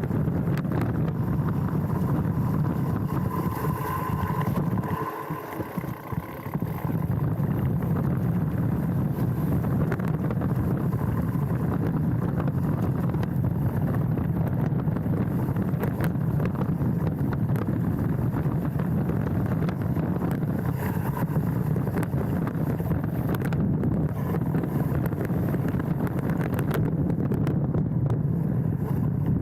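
Specialized Stumpjumper mountain bike riding down a dirt trail, heard from a handlebar-mounted camera: a steady rumble of tyres and bike rattle with wind on the microphone. It eases off briefly about five seconds in.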